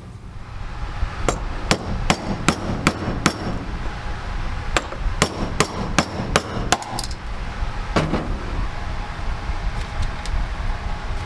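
Hammer blows, two quick runs of about six even strikes each, about two and a half a second, followed by a single duller knock.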